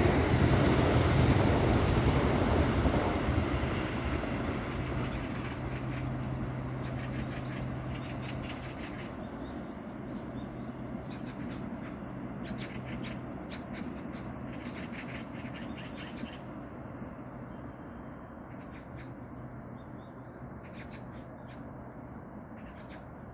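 ITX-Maum electric train running along the line and moving away, its rumble loud at first and fading steadily over about twenty seconds. Birds chirp in bursts through the middle and near the end.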